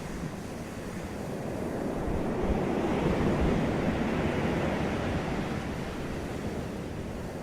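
Sea surf washing, with wind on the microphone; the rush swells about two seconds in and eases off toward the end.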